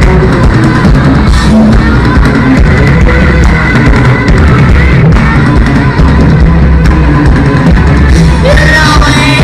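Live heavy rock band playing loudly: distorted guitar, bass and drum kit, with a sung or shouted vocal line coming in near the end.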